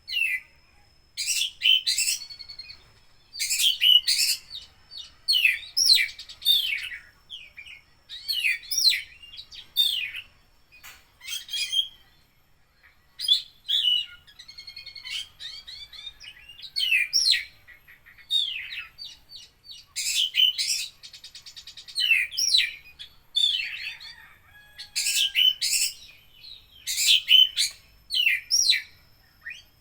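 Oriental magpie-robin (kacer) singing loudly and without pause. Its varied song is packed with mimicked phrases: short bursts of whistles and chattering notes about every second, with a fast buzzy trill about two-thirds of the way through.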